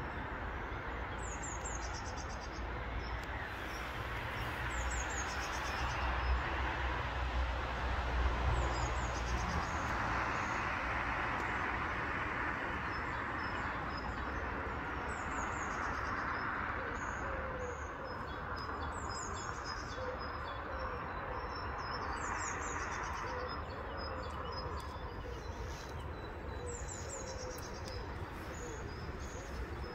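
Small songbirds chirping in short groups of high, quickly falling notes every few seconds, over a steady background hum of distant traffic.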